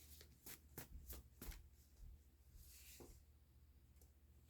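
Faint quick clicking of a tarot card deck being shuffled, stopping about a second and a half in.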